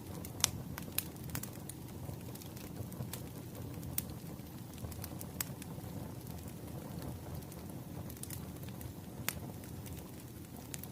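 Wood fire crackling: a steady low rumble of burning logs with sharp snaps and pops at irregular intervals.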